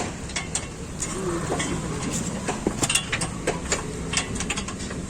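Irregular metallic clicks and clinks of hand tools, sockets and wrenches working on bolts under a car while its steering and subframe are being unbolted, over a steady low hum.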